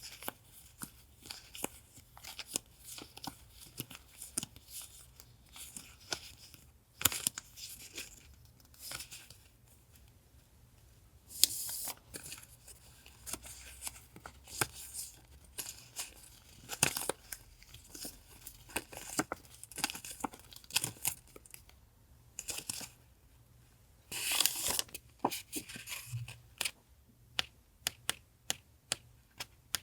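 Paper and plastic packaging being handled by hand: rustling, crinkling and small taps, with longer tearing sounds about eleven seconds in and again near twenty-four seconds.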